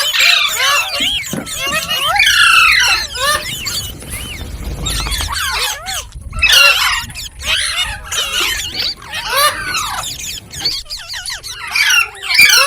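Green parrot chirping and squawking in runs of short, quickly rising and falling calls, with a quieter lull around the middle.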